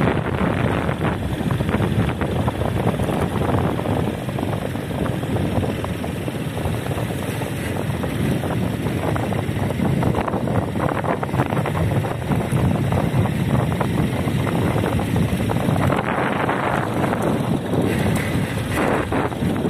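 Steady wind buffeting the microphone over the rumble of a moving vehicle, as from a car travelling along a road.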